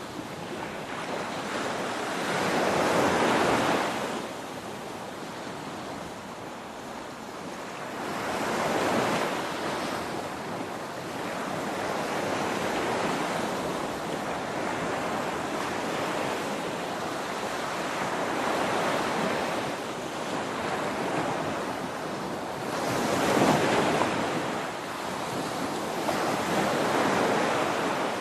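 Ocean surf: waves breaking and washing in a continuous hiss that swells and recedes, with the biggest surges a few seconds in and again near the end.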